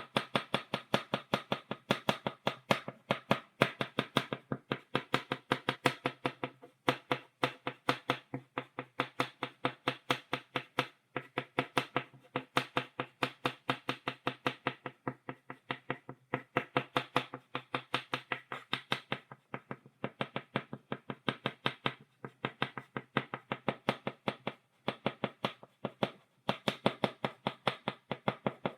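Chalk tapping against a blackboard, stippling dots: quick sharp taps several times a second, in runs broken by brief pauses.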